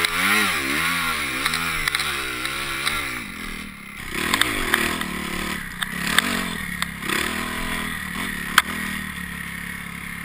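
Kawasaki KX250F four-stroke dirt bike engine revving up and down in quick, repeated surges as the rider works it at low speed in snow, typical of a rear tire slipping for grip. About four seconds in the revs drop away, rise once more, then the engine runs lower with scattered knocks and clatter.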